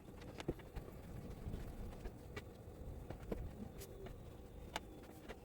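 Scattered, irregular sharp taps over a faint steady low rumble, in light rain.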